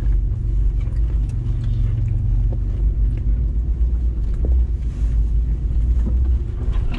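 Off-road 4x4's engine running steadily at low revs as the vehicle crawls down a leaf-covered forest slope, with a deep, even rumble and a few faint ticks and knocks.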